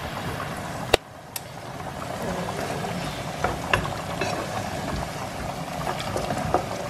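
Diced onions and carrots frying in oil in a pot, stirred with a wooden spoon that knocks against the pot several times, the sharpest knock about a second in, over a steady low hum.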